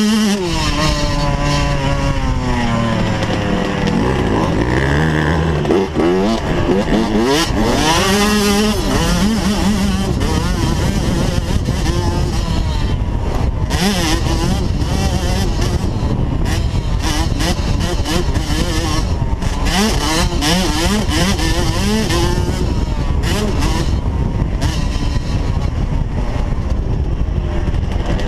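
Motocross dirt bike engine revving hard, its pitch climbing and dropping again and again with throttle and gear changes for about the first ten seconds. After that the engine runs on, rougher and more even in pitch.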